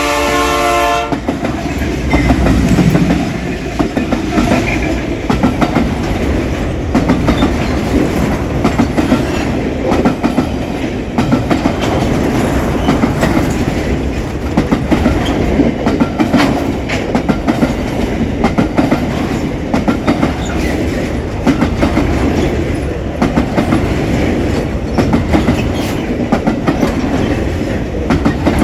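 A locomotive air horn sounding a chord that stops about a second in, then a freight train of empty wagons rolling past at speed, its wheels clicking rapidly over the rail joints.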